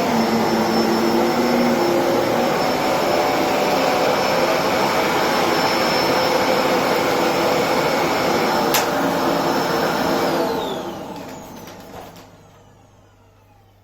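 Electrolux Precision bagless upright vacuum cleaner running steadily, then switched off about ten seconds in, its motor whining down to a stop over the next two seconds. A short click comes just before the switch-off.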